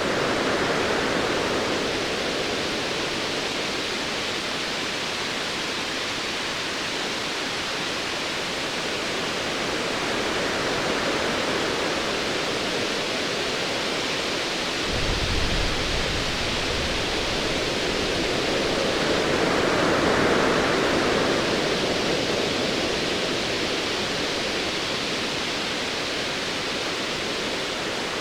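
Ocean waves in a steady rush, swelling and easing every several seconds, with a low rumble of distant thunder that starts suddenly about halfway through and fades over a few seconds.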